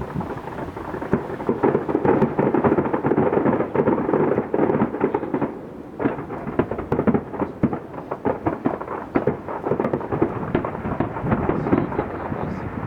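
Fireworks going off in a dense, rapid barrage of bangs and crackles, with a brief lull about six seconds in.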